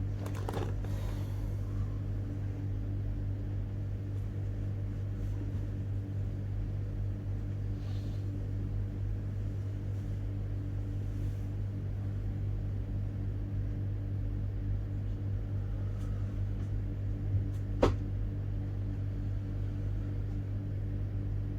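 A steady low mechanical hum with a few even pitches, like a running motor, with one sharp click about eighteen seconds in.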